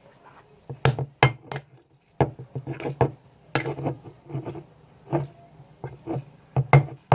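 Slime mixture being stirred in a container, the stirring utensil clinking and knocking against the container's sides in irregular sharp clicks, a few each second.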